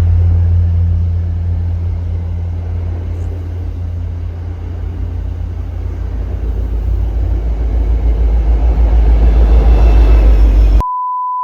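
Loud low rumble that eases off slightly, then swells again and cuts off abruptly into a steady high censor bleep near the end.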